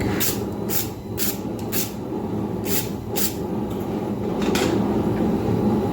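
Wire brush scrubbing scale off hot forged steel, about seven short scratching strokes over a steady low rumble.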